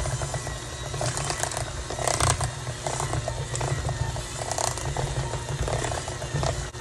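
Electric hand mixer running steadily, its beaters churning a thick ground-chicken and napa-cabbage dumpling filling, with irregular clicking and rattling as the beaters knock against the bowl.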